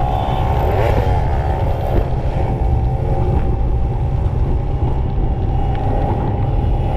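Small two-stroke motorcycle engine running at fairly steady revs on the move, with a brief shift in engine pitch about a second in, over a heavy low rumble of wind noise.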